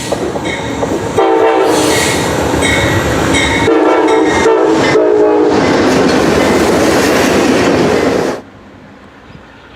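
Amtrak P42 diesel locomotive passing close by, sounding its horn in several blasts over the loud rumble of the train. The sound cuts off abruptly near the end.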